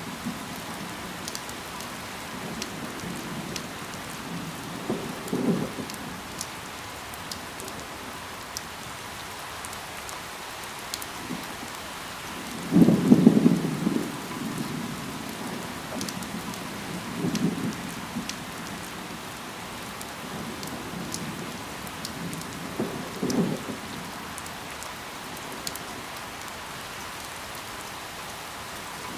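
Steady rain falling on leaves, with scattered sharp drip ticks. A few brief, louder low thuds come every several seconds, the strongest about 13 seconds in.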